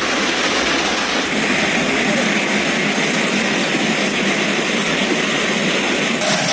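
Heavy hail falling, a dense, steady clatter of hailstones.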